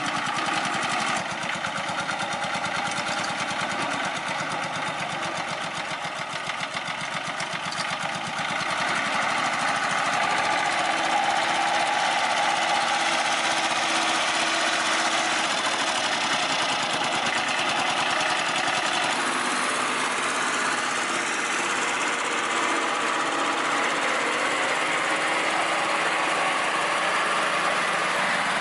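An engine running steadily with a fast pulsing beat; its sound shifts about eight seconds in and again near nineteen seconds in.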